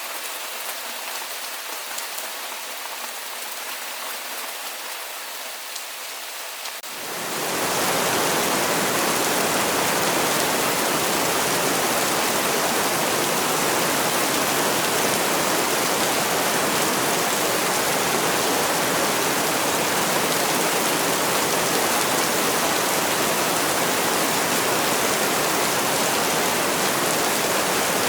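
Steady rain: lighter rainfall with faint separate drop ticks at first, then about a quarter of the way in it changes abruptly to louder, denser, fuller heavy rain that holds steady.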